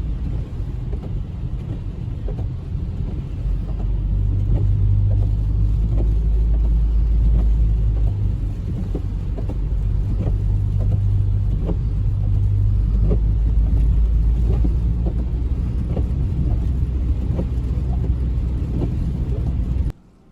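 Steady low rumble of a motor vehicle or road traffic, with scattered light ticks through it. It cuts off suddenly near the end.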